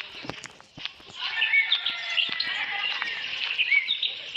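Many overlapping high chirping calls, starting about a second in, with a few sharp clicks just before.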